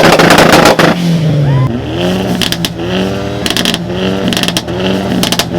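Car engine revved hard on a two-step launch limiter: it holds loud and high for about a second, then the revs fall. It then bounces repeatedly, about twice a second, with sharp exhaust pops and bangs.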